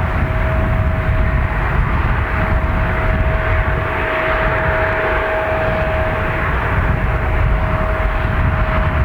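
Mitsubishi CRJ-900's twin turbofan jet engines running, a steady high whine over a broad rumble and hiss.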